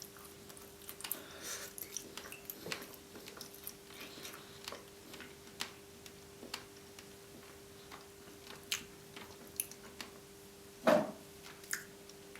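Close-up eating sounds of a person chewing roast chicken breast: scattered soft wet mouth clicks and smacks, with one louder bite or smack near the end.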